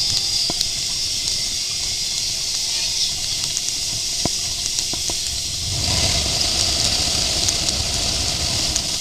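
Steady rushing hiss of a boat moving over water, with a deeper rumble swelling in about six seconds in.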